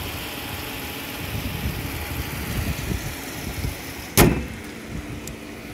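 Chrysler 300's engine idling steadily, with one loud slam about four seconds in as the hood is shut.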